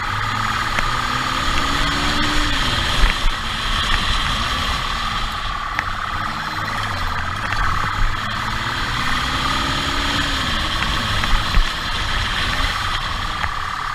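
Vehicle engine running as it is driven, its revs rising and falling, over steady road noise, with a few short knocks.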